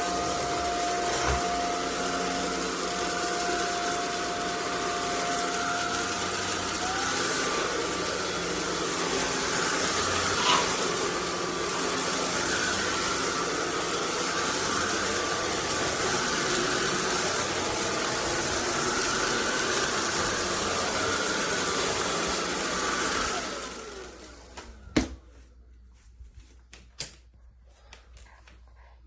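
SunSare X11 cordless stick vacuum running steadily, then switched off about three-quarters of the way through, its motor winding down with a falling whine. A few sharp clicks or knocks follow.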